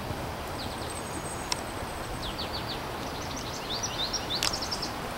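Outdoor background noise with a bird chirping: quick series of short, falling high chirps in the middle and again near four seconds in. Two sharp clicks come about one and a half and four and a half seconds in.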